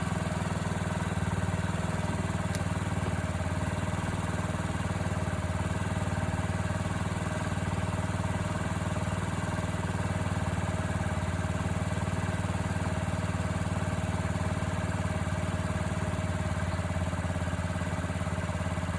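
2020 Honda Ruckus's 49 cc four-stroke single-cylinder engine idling steadily at an even pitch, left running to warm up before an oil change.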